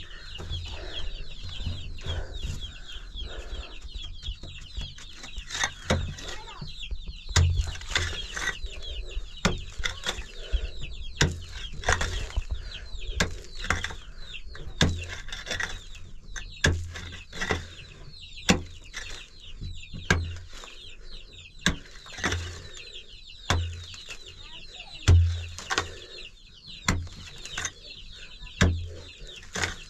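Birds chirping and clucking steadily, with repeated sharp knocks and dull thumps every second or two; the loudest thump comes about 25 seconds in.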